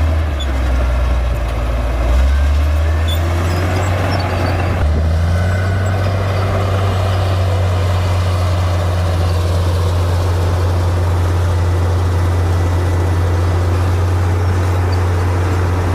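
Komatsu D58P bulldozer's diesel engine running steadily while working. Its low engine note steps up about five seconds in and then holds, over a broad mechanical din.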